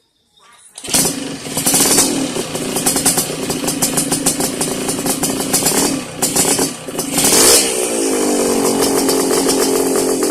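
Yamaha RX-King two-stroke single-cylinder engine running through a YRC racing aftermarket exhaust, with a crisp, crackly note. It comes in suddenly about a second in, is blipped up and down, rises in pitch around two-thirds of the way through, then holds a steady drone.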